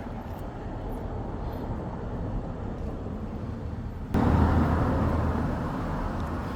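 Street traffic noise: a steady rumble of passing vehicles that jumps suddenly louder about four seconds in, then slowly eases.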